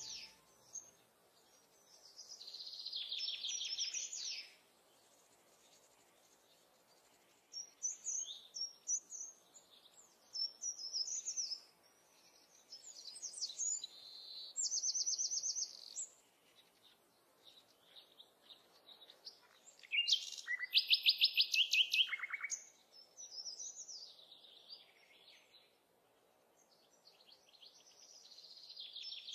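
Songbirds singing in short phrases of chirps and fast trills, separated by quiet gaps. The loudest phrase is a rapid trill about two-thirds of the way through.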